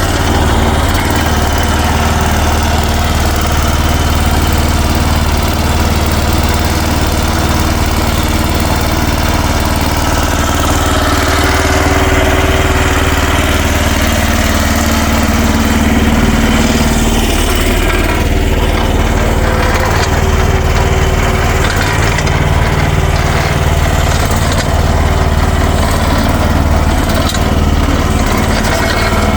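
Future FT15 mini excavator's small engine running steadily as the machine is worked. A higher hum swells for a few seconds around the middle.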